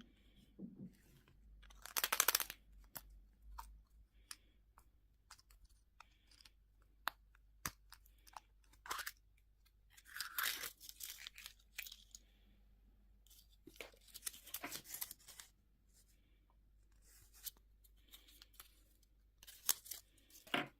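Candy and toy wrappers being torn and crinkled open by hand, in four loud tearing bursts with small clicks and rustles between them.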